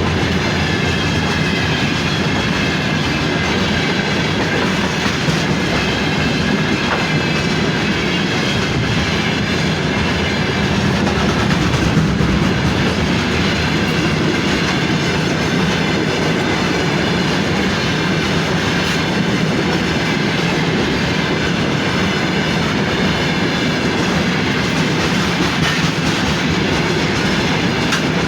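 Freight train wagons rolling past at steady speed, a continuous rumble with the clickety-clack of wheels over the rail joints.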